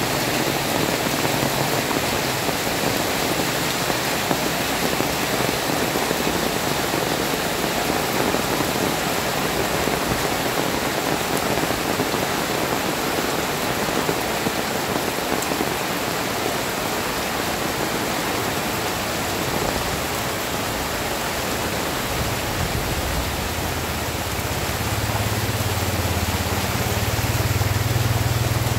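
Heavy rain pouring steadily onto a flooded street, a dense even hiss of rain. Near the end a motorcycle engine hums in, coming closer.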